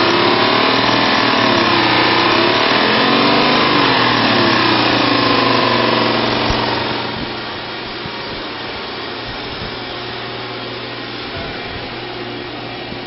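Chevrolet 5.3-litre V8 engine running and being revved, its pitch rising and falling several times, then dropping back to a steady idle about seven seconds in.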